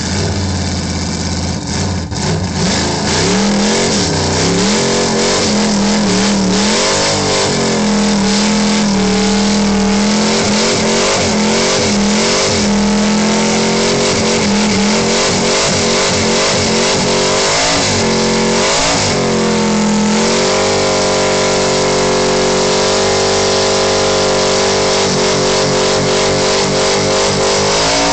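A car engine revved hard during a burnout, the rear tyres spinning in clouds of smoke. The revs rise and fall repeatedly, then hold high and steady for the last third.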